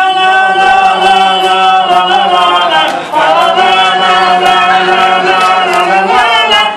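Men's voices singing a cappella in long, steady held chords like a chant, with a short break about three seconds in before the next held chord.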